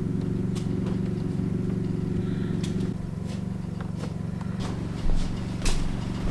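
An engine running steadily at an even speed, with a couple of sharp clicks near the end.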